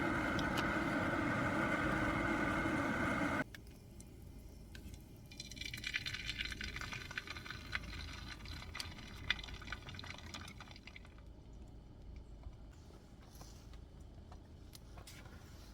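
A steady machine hum with several pitched tones cuts off suddenly about three seconds in. Then water runs and splashes for about six seconds, as if pouring from a portable camping water heater's hose, and fades away.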